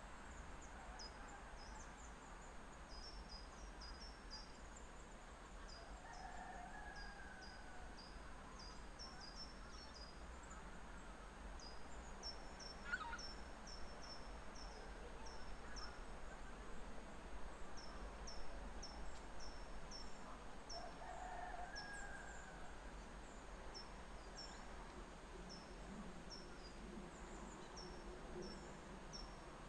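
Faint outdoor bird calls: short, high, falling chirps repeated in quick groups throughout, with two lower calls about six and twenty-one seconds in, over a low steady rumble.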